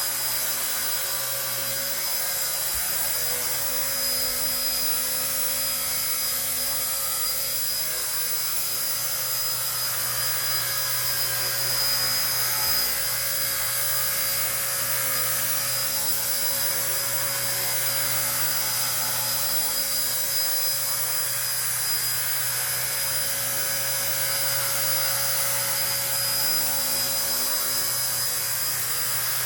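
RC ERA 1/48-scale Huey micro RC helicopter in flight: the steady high whine of its small electric motor with the hum of its spinning rotor, holding an even pitch throughout.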